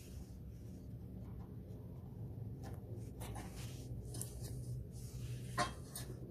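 Light clicks and scrapes of hands and tools working on a small snowblower engine's fuel line and carburetor, over a steady low hum. The sharpest click comes about five and a half seconds in.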